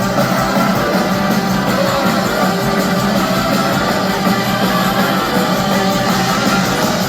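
A live rock band playing loudly, with electric guitar out front and no singing.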